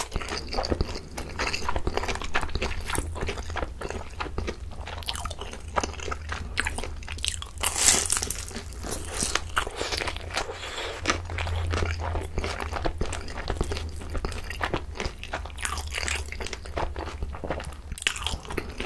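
Close-miked mouth sounds of eating: wet chewing and crunching of a crispy pan-fried dumpling, with a louder crunching bite about eight seconds in.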